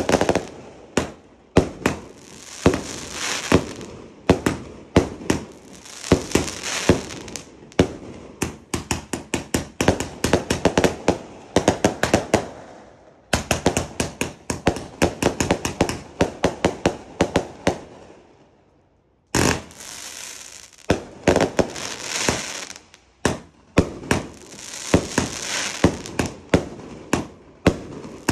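A 259-shot Raining Tears consumer firework cake firing shot after shot in rapid succession: sharp launch and burst bangs with a hiss between them. There is a short lull about halfway through and a silent break of about a second around two-thirds in, then the firing starts again.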